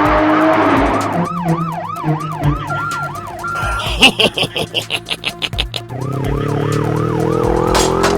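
Emergency-vehicle siren sound effect: a fast up-and-down wail about three times a second, interrupted midway by a couple of seconds of rapid high beeping, with an engine rising in pitch beneath it at the start and near the end.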